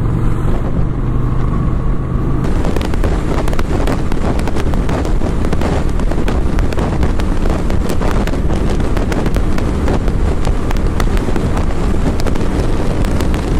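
Motorcycle riding at speed, recorded on a rider-mounted camera: a steady engine note for the first two seconds or so. Then heavy wind buffeting on the microphone takes over, crackling over the engine rumble.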